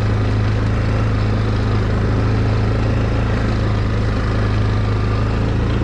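ATV engine running at a steady, unchanging speed, a constant low hum.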